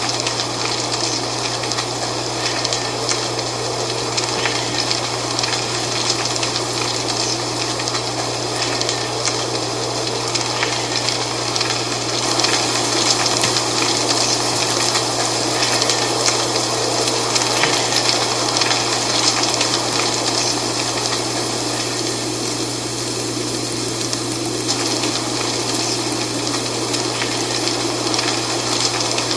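Dry autumn leaves rustling in steady wind, a dense stream of small crackles that swells slightly in the middle. A steady low hum runs underneath.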